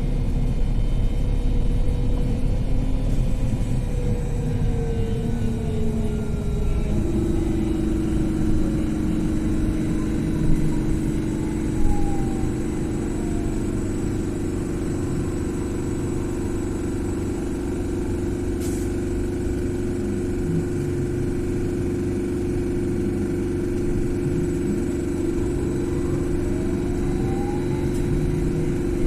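BKM 42003A "Vitovt" trolleybus riding along, with the electric traction drive's whine over a steady hum and road rumble. The whine glides down in pitch through the first half as the trolleybus slows, then rises again near the end as it picks up speed.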